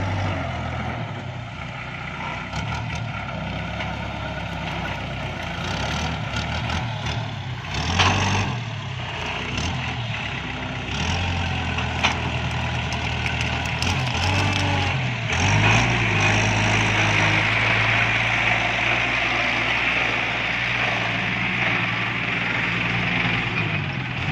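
Iseki NT554 tractor's diesel engine running, its pitch shifting up and down several times as it works, with a sharp knock about eight seconds in.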